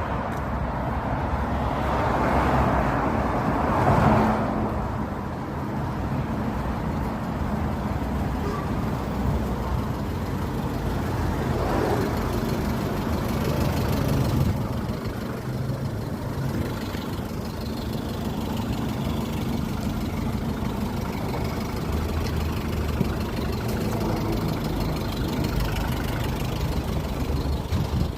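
Steady rumble of motor vehicle engines or road traffic, swelling louder about two to four seconds in and again around twelve seconds.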